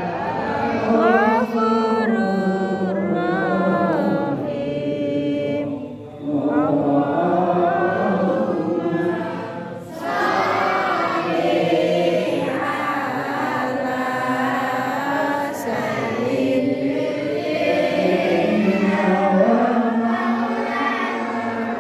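Mosque congregation chanting together in a melody, the unison Arabic responses sung at tarawih prayer. The chanting breaks briefly about six and ten seconds in.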